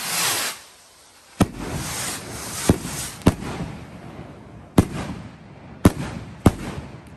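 Consumer fireworks going off. A rushing hiss ends about half a second in, then six sharp bangs come unevenly over about five seconds, each trailing off in a rumble. The sound fades near the end.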